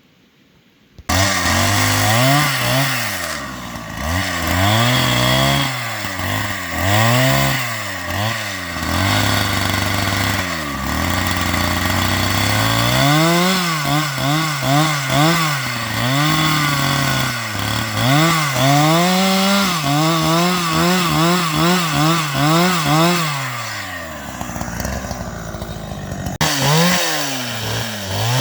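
Two-stroke chainsaw running hard, its engine pitch rising and falling over and over as it is revved and loaded in a cut through wood. It comes in abruptly about a second in and eases off briefly near the end.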